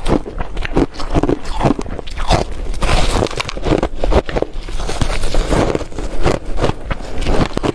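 Ice being bitten and chewed close to the microphone: a steady run of loud crunches, about two to three a second.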